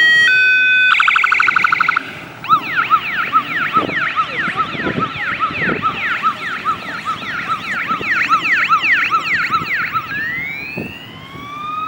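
Police car's electronic siren switching through its tones. It begins with a two-tone hi-lo, moves to a rapid pulsing note about a second in, then a fast yelp from about two seconds in, and changes to a slow rising and falling wail near the end.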